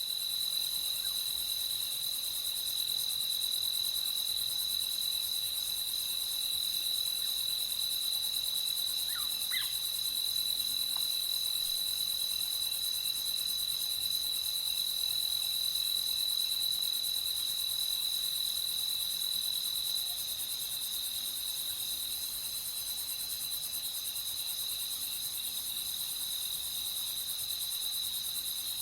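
Night chorus of insects, a steady high trill with a dense high hiss of many more calls above it. A few faint short chirps come through about a third of the way in.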